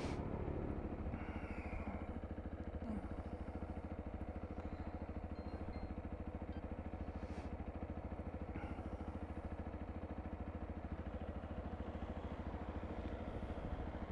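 Sinnis Terrain 125cc motorcycle's single-cylinder engine running steadily at an even pitch.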